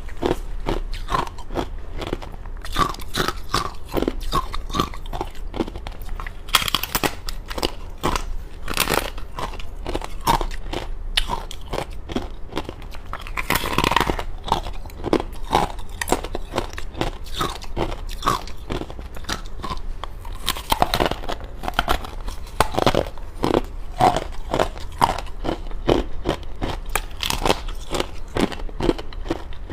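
Thin, hollow frozen matcha ice being bitten and chewed close to the microphone: a steady run of crisp crunches and cracks, with a few sharper, louder snaps as bigger pieces break.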